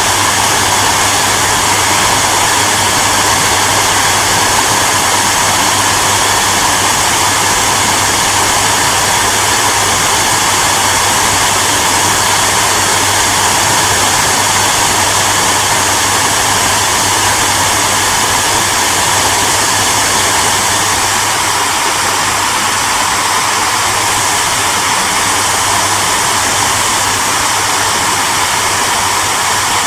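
Electric hair dryer running steadily: a constant rush of air from its fan with a low motor hum underneath.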